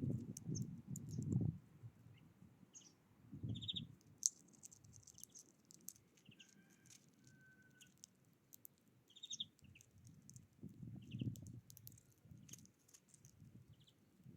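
Small wild birds chirping with short, high, repeated calls and ticks, with a couple of brief whistled notes about halfway through. Low rumbling swells come and go underneath, loudest at the start.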